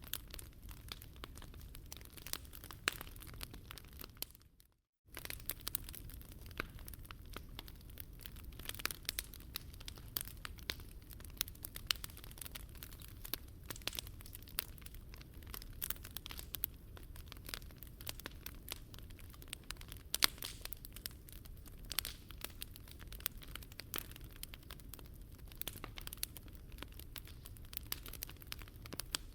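Wood fire burning in a Picogrill 398 fire pit, crackling with many sharp irregular pops over a steady low rumble. The sound drops out completely for about half a second around five seconds in.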